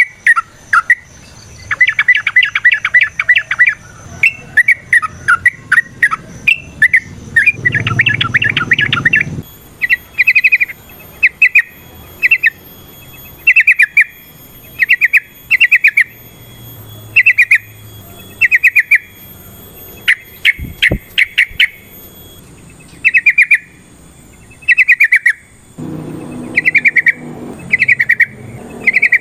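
Yellow-vented bulbul (trucukan) singing: fast, chattering runs of notes for the first nine seconds or so, then short, bubbly phrases repeated about once a second.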